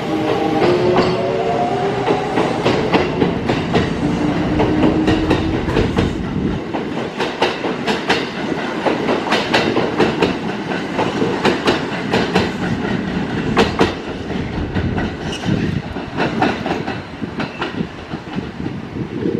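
Kintetsu electric train running through the station. Its motor whine rises in pitch over the first few seconds, then there are many quick clacks of wheels over rail joints above a steady rumble. The noise fades in the last few seconds as the train draws away.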